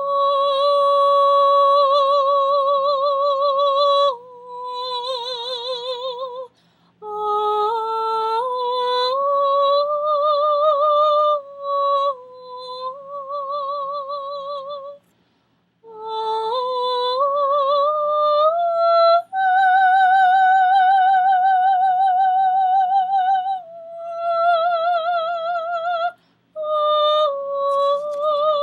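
A solo high soprano-range voice singing long sustained notes with a wide vibrato, stepping up and down in phrases with brief breaths between them.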